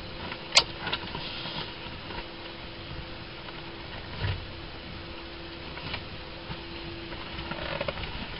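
Handling noises in a small aircraft's cabin: a sharp click about half a second in and a softer knock near the middle, over a faint steady hum.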